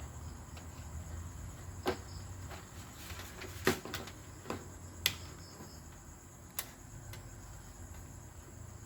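About five sharp clicks and taps spread over several seconds, from handling a backlight tester and LED backlight strips, over a steady low hum and a faint steady high tone.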